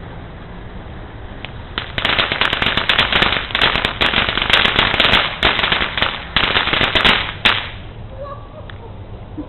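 Firecrackers popping in a dense, rapid string. It starts about two seconds in and cuts off sharply some five seconds later.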